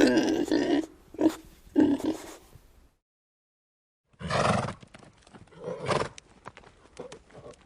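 A mini pig grunting in several short bursts, then, after a second of silence, horses: a loud horse call followed by hooves clip-clopping in quick, irregular knocks.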